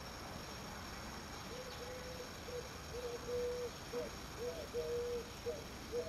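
A bird calling with a run of short, low notes, some with a brief upward lift, starting about a second and a half in and repeating unevenly.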